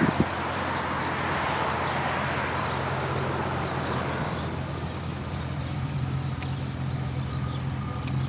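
A vehicle going by on the road, its sound fading away over about four seconds, over a steady low hum.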